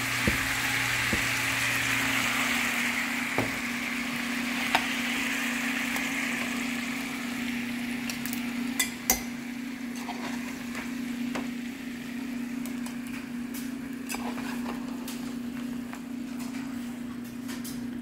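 Browned oxtails sizzling in a saucepan, the sizzle fading after the first several seconds, then scattered clinks and knocks of a metal slotted spoon against the pan and the slow cooker crock. A steady low hum runs underneath.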